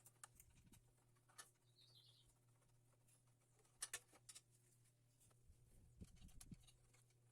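Near silence: faint low room hum with a few soft scattered clicks, the loudest a pair about four seconds in, and a brief faint high chirp about two seconds in.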